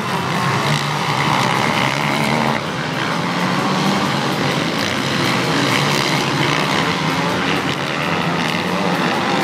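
Several motocross bike engines running at high revs together, their pitch rising and falling as the riders work the throttle.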